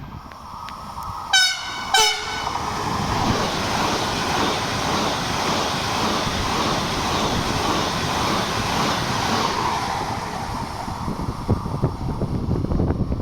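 Train horn giving two short blasts, the second lower in pitch, then the train passing at speed with a steady rush of wheels on rail that fades, followed by clicking and rattling of the wheels over the rail joints near the end.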